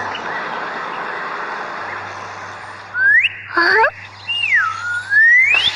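Animation sound effects: a steady noisy rumble, then about halfway through loud whistle-like tones that slide up, then dip and rise again.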